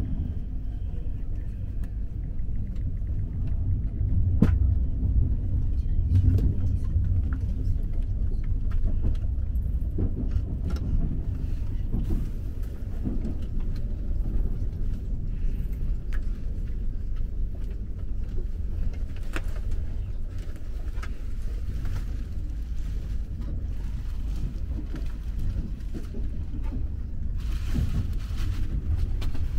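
Steady low rumble of a OUIGO high-speed train, with scattered faint clicks and knocks. A hiss comes in near the end.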